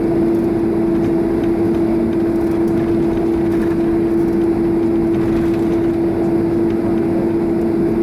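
Steady cabin noise of a Boeing 767-300 taxiing on its GE CF6 engines at idle, with an even hum at one steady pitch over a broad rush.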